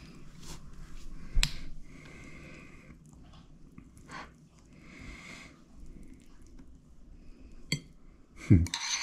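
Kitchen handling sounds: a few knocks and clicks of dishes and utensils with soft scraping in between, the loudest knock near the end.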